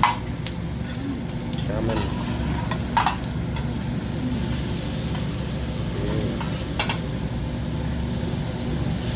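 Food sizzling on a hot hibachi griddle, with sharp metal clinks from the chef's spatula on the steel plate at the start, about three seconds in, and about seven seconds in.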